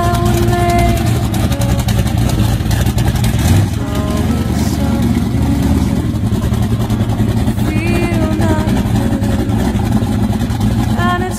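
Engine of a stripped-down first-generation Ford Mustang running loudly and steadily as the car drives off under its own power.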